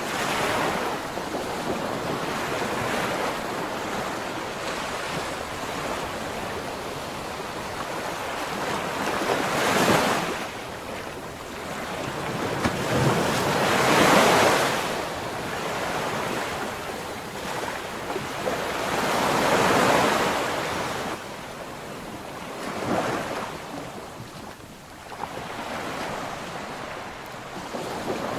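Ocean waves breaking and washing up the shore, a steady surf rush that swells every few seconds. The biggest surges come about a third of the way in, around halfway, and again about two-thirds through.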